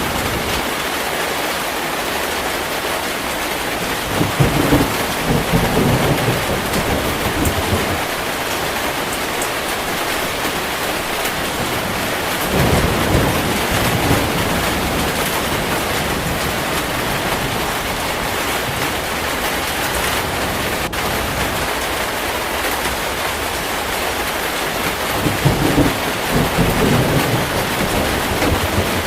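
Heavy rain falling steadily, with low rolls of thunder three times: about four seconds in, around twelve seconds in, and near the end.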